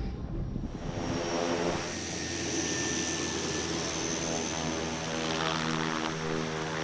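Quest Kodiak's Pratt & Whitney PT6A turboprop running steadily: an even propeller drone with a high turbine whine over it.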